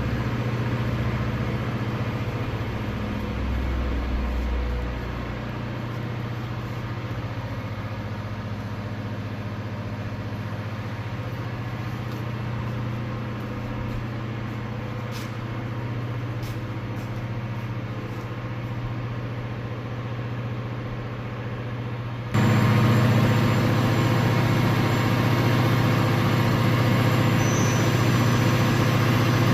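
Takisawa twin-spindle CNC lathe running on a test run: a steady machine hum with a few light clicks midway. About three-quarters of the way through, it steps up suddenly to a louder hum.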